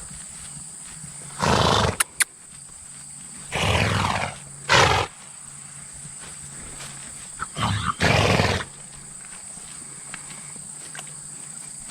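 Large farm livestock making four short, loud, breathy calls, spread across several seconds.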